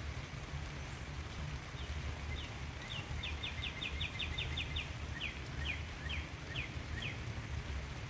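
A songbird singing one phrase of short, high, downward-sliding notes that speed up into a rapid trill and then slow again. Under it, steady rain and a low rumble.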